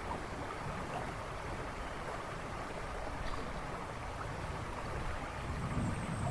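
River rushing and babbling in a steady wash of water noise, with a faint short high bird note near the end.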